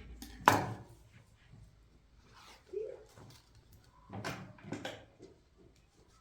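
A sharp knock about half a second in, the loudest sound, followed a little past the middle by a cluster of further knocks and handling noises.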